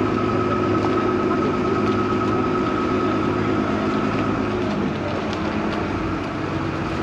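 Vaporetto water bus engine running steadily, with a steady high whine over it. The engine note and whine drop away about five seconds in, as the boat eases off.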